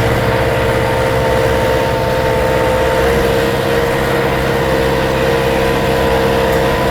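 Tractor engine running steadily, with a constant whine held on one pitch above the engine note.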